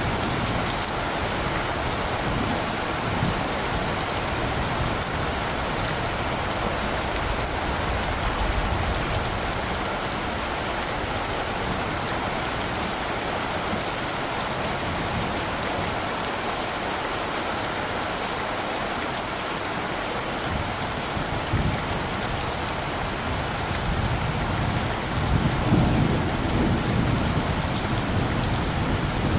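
Steady rain falling, with a dense patter of drops. Near the end, a low rumble of light thunder swells under it.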